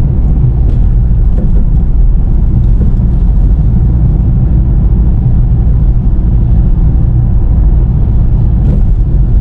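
Car driving, a loud steady low rumble of engine and road noise.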